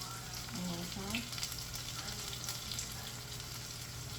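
Salmon frying in hot oil in a pan: a steady sizzle with scattered small pops and crackles.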